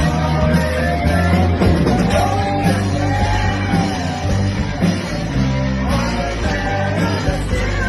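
A band playing a song with a singer, over steady bass notes.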